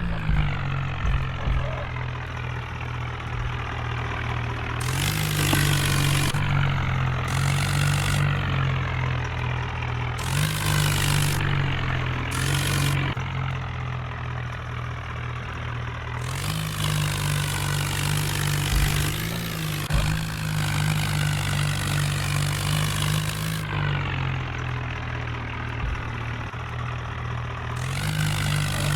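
Tractor engine running steadily, its pitch stepping up and settling back several times as the revs rise and fall, with the longest raised stretch about midway.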